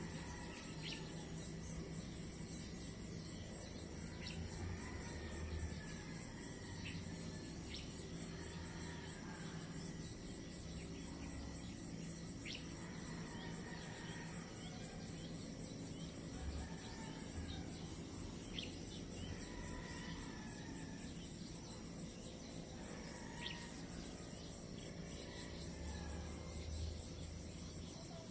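A steady, high-pitched chorus of crickets trilling, with scattered short chirps above it and a low rumble that comes and goes beneath.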